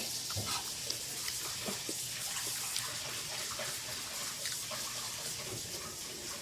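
Sea grapes being chewed close to the microphone: many small scattered pops over a steady hiss.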